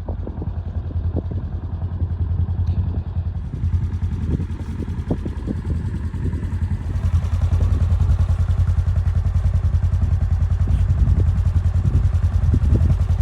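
2022 Polaris Ranger Crew 1000 XP side-by-side's engine running as it drives along a rough trail, with a few short knocks and rattles. The engine grows louder about seven seconds in.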